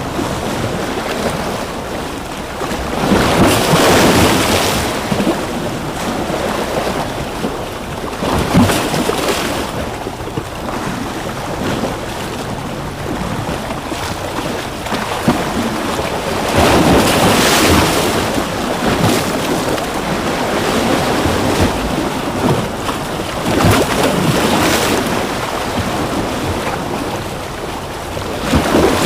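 Ocean waves crashing: a steady wash of surf that swells into a louder surge about every five to seven seconds.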